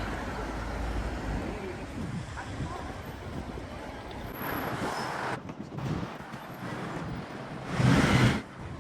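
City street traffic noise, with vehicles going by. A short loud burst of noise comes near the end.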